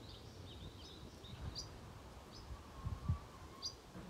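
Small birds chirping outdoors: short, high, quick calls repeated every second or so, over a faint low rumble with a soft bump about three seconds in.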